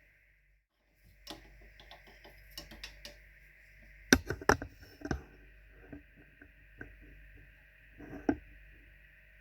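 Irregular small clicks and taps of plastic Deans connectors and soldering tools being handled on a work surface, loudest in a cluster of sharp clicks about four seconds in and again near eight seconds, over a steady faint hiss.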